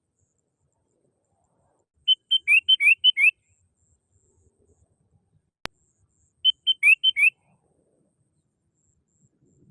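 Sooty-headed bulbul (kutilang) calling: two quick phrases of short, bright notes with rising slurs, about two seconds in and again about six and a half seconds in. A single sharp click falls between the phrases.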